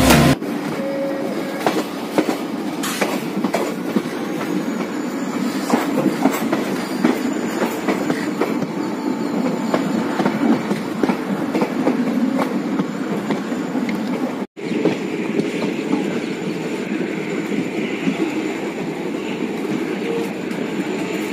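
Passenger train running on the rails, with wheels clicking over the rail joints and a faint high steady whine. The sound cuts out for a split second about two-thirds through.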